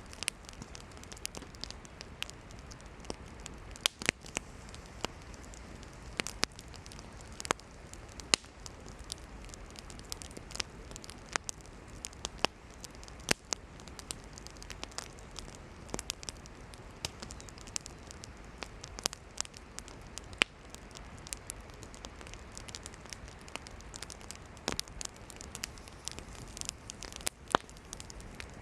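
Wood campfire burning and crackling: irregular sharp pops and snaps from the burning firewood over a steady soft hiss of the fire.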